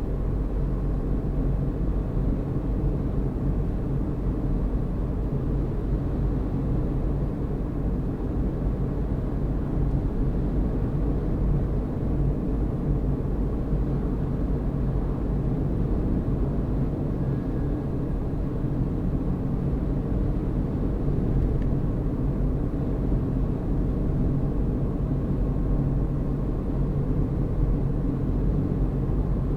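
Car driving at a steady pace, a steady low rumble of engine and road noise with no change throughout.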